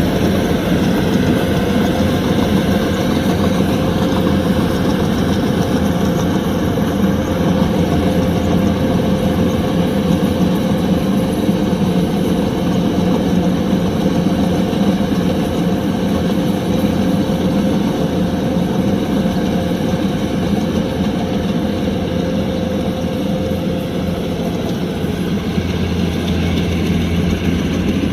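Kubota DC-105X combine harvester running steadily, its engine holding an even, unbroken drone.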